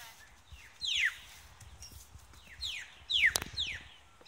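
Bird calls: about four short, falling whistled notes, spread across the few seconds, with a single sharp click about three and a half seconds in.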